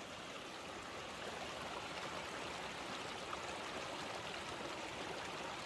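Mountain stream running over rocks, a steady rush of water.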